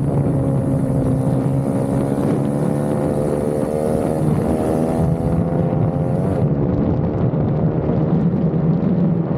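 Small minibike engine running at racing speed, heard from the bike itself. The revs drop and rise as it goes through corners, climbing about four seconds in and again around six seconds.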